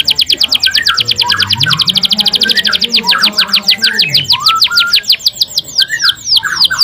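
Domestic canary singing: a very fast, high rolling trill of repeated notes. About five seconds in it changes to slower, separate notes that each sweep downward. Short, lower chirps are mixed in beneath.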